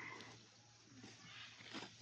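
Near silence: faint outdoor background, with a brief faint noise near the end.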